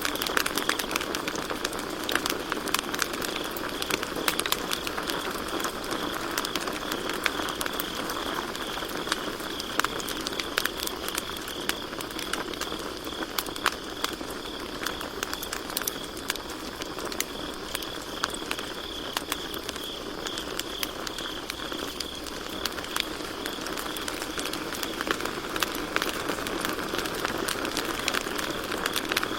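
Campfire crackling with frequent small pops and snaps, over the steady chirping of crickets.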